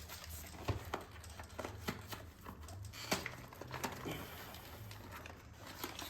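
Faint, scattered light clicks and taps from small parts and tools being handled during motorcycle chain work, about one every second, over a low steady hum.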